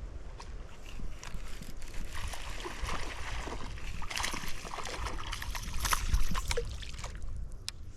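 Water splashing and trickling, with wind rumbling on the microphone and scattered small clicks and knocks. The splashing is strongest from about two to seven seconds in.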